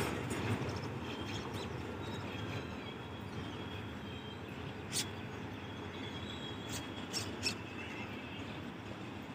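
Goods train heard faintly, a steady low rumble with thin high squealing tones coming and going, and a few sharp clicks about five and seven seconds in.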